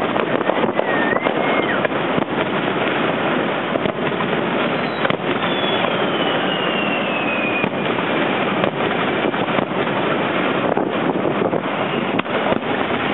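Fireworks display: a dense, continuous crackle of many small pops and bangs, with a whistle falling slowly in pitch over about three seconds midway through.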